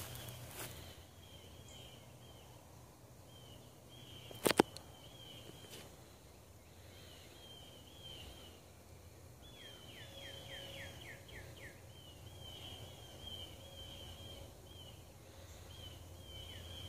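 A bird singing outdoors. Short chirps at one pitch come in runs, and twice there is a quick series of about six falling whistled notes, over a steady low background hum. A single sharp click comes about four and a half seconds in.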